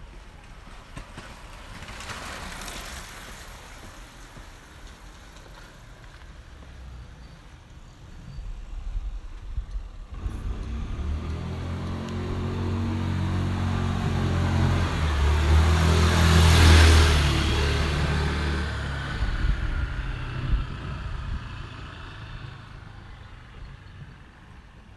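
A car drives past: its engine hum and tyre noise build steadily, are loudest about two-thirds of the way through, then fade away. A fainter pass of road noise comes a couple of seconds in.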